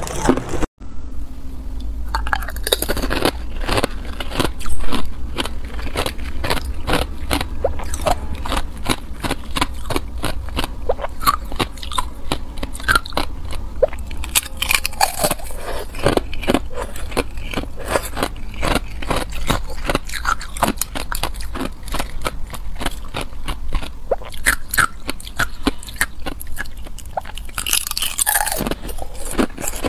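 A person biting and chewing hard ice, close to the microphone: a dense run of sharp crunches and cracks, with a brief cut to silence less than a second in and the loudest bites around five seconds in.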